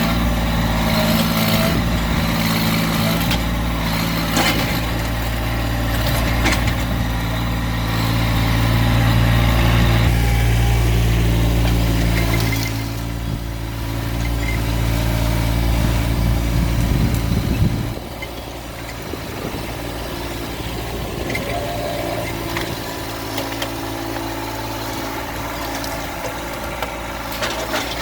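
Massey Ferguson GC1710 subcompact tractor's three-cylinder diesel engine running steadily. It gets louder for a few seconds around the middle, then drops to a lower, quieter run about two-thirds of the way through.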